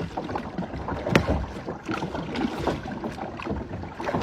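Kayak paddles dipping and splashing in the water in irregular strokes, with a sharper splash about a second in.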